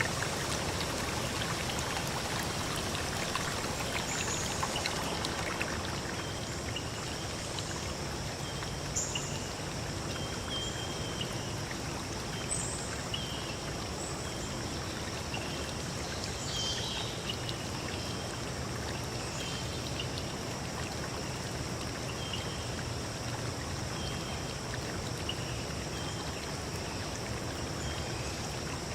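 Forest stream flowing steadily, with short high chirps every second or two over the water.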